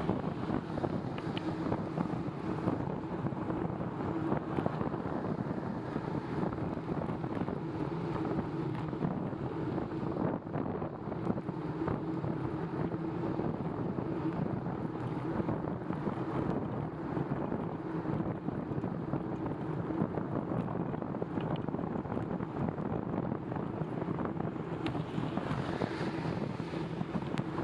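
Steady wind noise on the microphone of a bicycle being ridden, with the hiss of its tyres on wet pavement.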